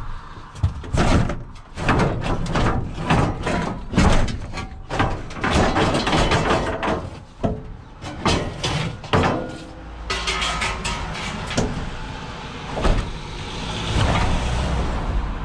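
A rapid, irregular run of knocks and clatters, like objects being handled and set down, for about the first ten seconds. From about eight seconds in, a vehicle engine runs steadily under it.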